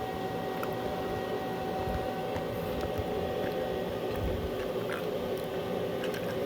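Steady electrical hum from the welding setup with a low, rough crackle and a few faint ticks and pops.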